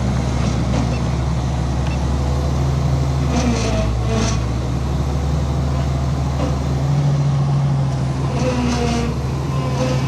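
Heavy diesel engine running steadily under load, a deep even drone, with a few short higher-pitched sounds over it about three and a half, four and eight and a half seconds in.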